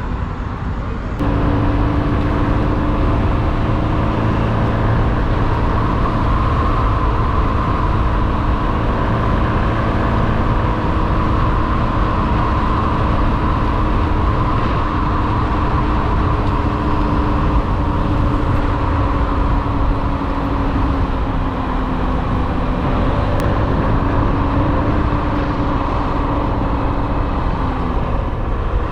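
Motorbike on the move: a small engine running at a steady cruise, its pitch drifting slowly, over a constant rush of wind and road noise. It gets louder about a second in.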